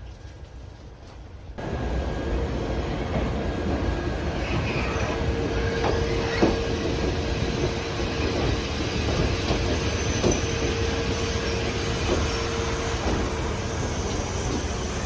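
Electric train running on rails, starting about a second and a half in: a steady rumble with a held tone and a few sharp clicks from the wheels.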